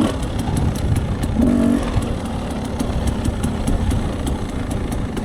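Dirt bike engine running steadily at low revs on a steep, rocky downhill, with frequent small clicks and knocks throughout.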